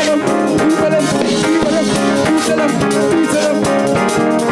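Live church praise band playing an upbeat groove with drum kit and guitar.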